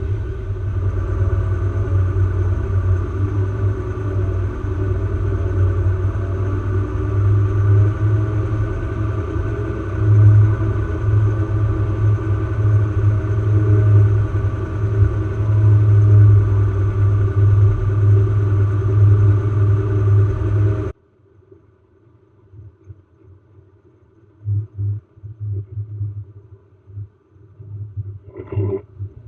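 Off-road vehicle's engine running steadily with a deep drone, which cuts off abruptly about two-thirds of the way in, leaving only faint low thumps.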